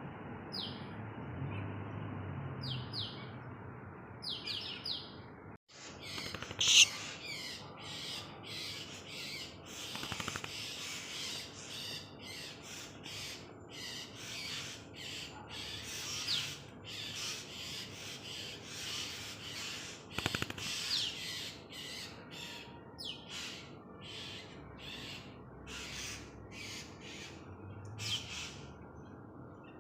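Swiftlet chirping: a long run of short, high chirps repeated many times, with a brief gap about six seconds in.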